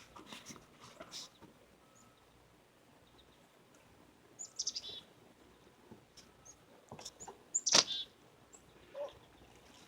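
Small birds chirping, with a quick series of falling chirps about halfway through. A little after two-thirds of the way there is one sharp, loud snap.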